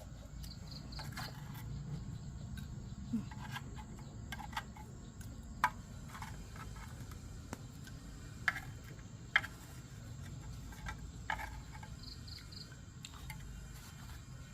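An insect chirps in short high pips, once near the start and again near the end. Scattered light clicks and knocks sound over a low steady background rumble.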